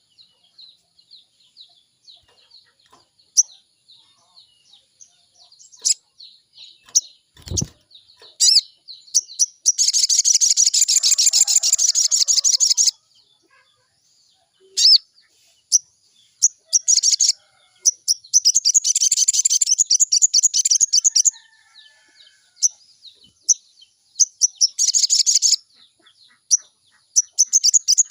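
Sogon bird singing: several fast, chattering, warbling phrases of one to three seconds each, with scattered single chirps between them. A single low thump comes about seven and a half seconds in.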